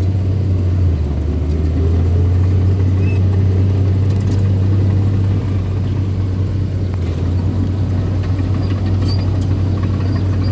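Engine of a small bulldozer running steadily, a loud low drone that eases slightly about five seconds in.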